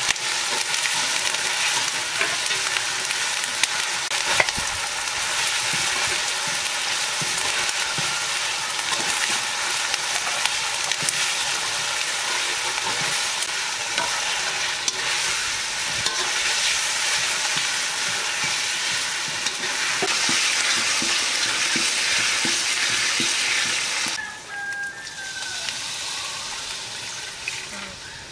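Spice paste frying in oil in a steel karahi, sizzling steadily, with a metal spatula scraping and clicking against the pan as it is stirred. The sizzle drops away sharply about 24 seconds in.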